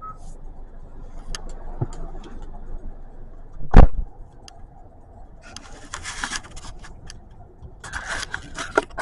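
Handling noises in and around a car: scattered clicks, a single heavy thump about four seconds in, then two stretches of rustling, jangling noise over a low steady rumble.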